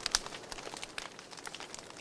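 Wood fire crackling in a fireplace: irregular sharp pops and snaps over a soft steady hiss, with a cluster of louder pops at the start.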